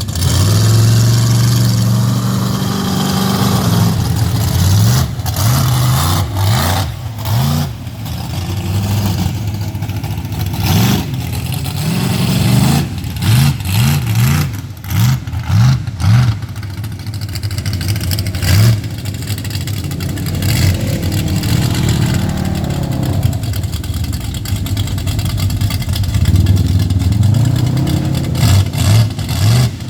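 Mega truck's engine revving in repeated short blips, the pitch jumping up and falling back many times, between stretches of steadier running.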